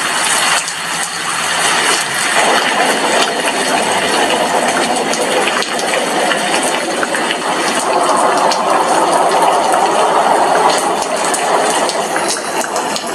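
Heavy rain falling steadily, with dense drops striking a glass window. It swells a little heavier for a few seconds past the middle.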